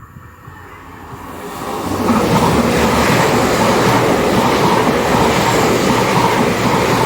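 GWR Class 800 train passing through the station. Its noise builds over the first two seconds as it approaches, then stays loud and steady as it goes by.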